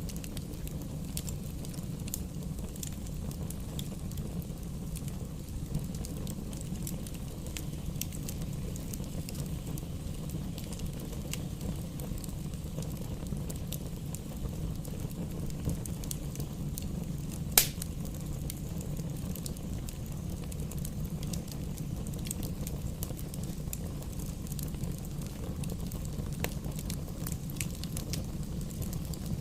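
Wood fire burning in a fireplace, crackling steadily over a low rumble, with many small pops and one loud sharp pop a little past halfway.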